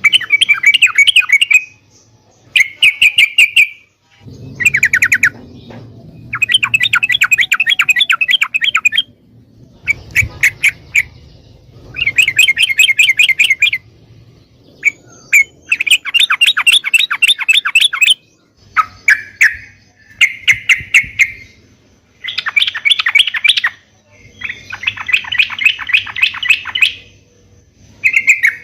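Yellow-vented bulbul (trucuk) singing loudly in a long series of rapid, chattering phrases, each a second or two long, with short pauses between them.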